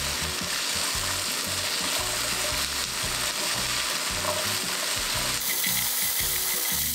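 Whole peeled garlic cloves sizzling in oil in a frying pan, stirred with a spatula.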